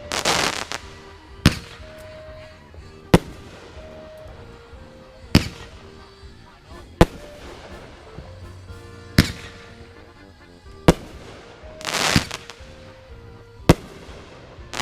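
Fireworks going off: sharp single bangs about every one and a half to two seconds, with two longer crackling bursts, one at the start and one about twelve seconds in.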